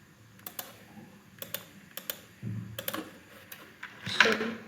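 Computer mouse clicking while colouring areas of a drawing with the fill tool: a few scattered sharp clicks, some in quick pairs.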